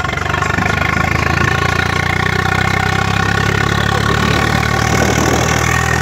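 Tractor diesel engine running at a steady speed with a fast, even throb, and a steady higher hum above it.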